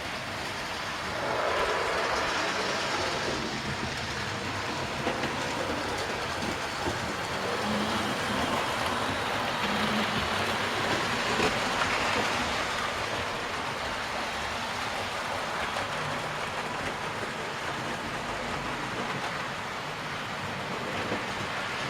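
00 gauge model trains running around the layout, a steady rolling rumble of small wheels on the track and the locomotive motors. It swells as a train passes close, about a second in and again around the middle.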